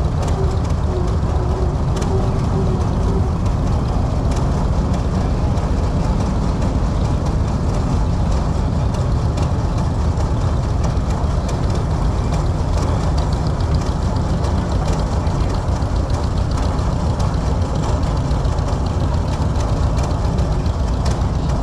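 Engine running steadily, with a dense low rumble and rapid fine ticking.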